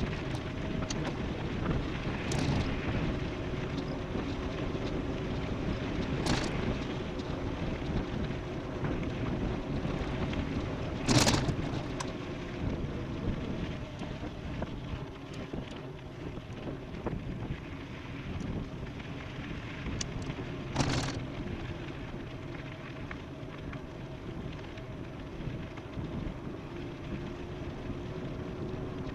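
Wind rushing over the microphone of an e-bike riding fast downhill, with a faint steady hum under it. Four sharp knocks cut through, the loudest about eleven seconds in.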